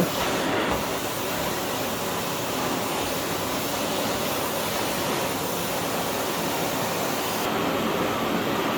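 Philips PowerPro FC9331/09 compact bagless vacuum cleaner running steadily, its 900 W motor and airflow making an even rushing hiss.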